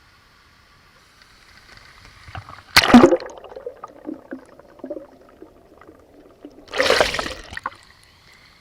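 Water splashing in a pool: two loud splashes about four seconds apart, with smaller splashes and knocks between them.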